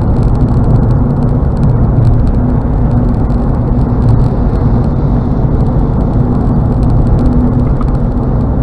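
Steady road noise of a car cruising on a highway, heard from inside the cabin: an even tyre-and-road rumble with a faint steady engine hum.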